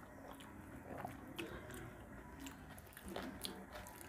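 A man chewing a mouthful of rice and fish curry, with soft wet mouth sounds and a few short clicks and smacks.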